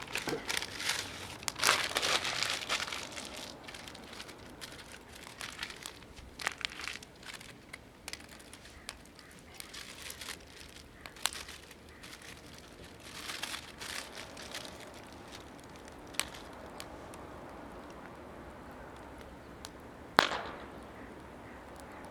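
Wood fire of mostly green wood crackling in a Snow Peak fire pit: a dense run of crackles in the first few seconds, then scattered sharp pops, the loudest near the end.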